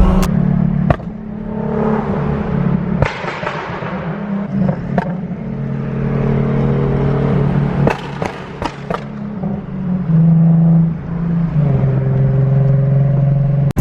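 Car engine and exhaust running loudly under way, its note holding and then changing step by step, with a few sharp cracks.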